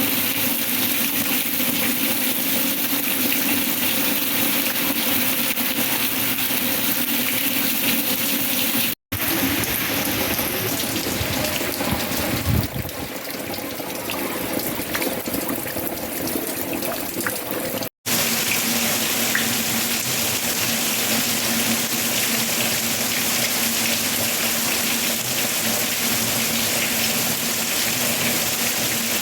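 Heavy rain falling: a steady, dense hiss of water. It comes in three stretches, broken by two brief silent cuts, about a third and two thirds of the way through.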